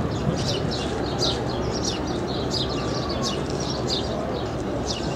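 Small birds chirping busily, a run of short high chirps several a second, over a steady low background rumble.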